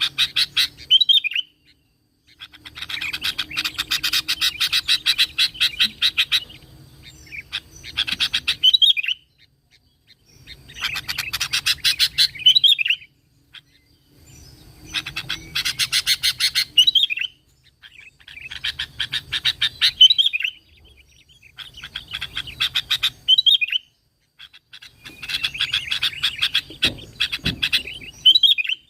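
Sooty-headed bulbul (kutilang) singing in repeated bouts of fast, rattling chatter, each lasting one to four seconds and ending in a short whistled flourish, with brief pauses between bouts.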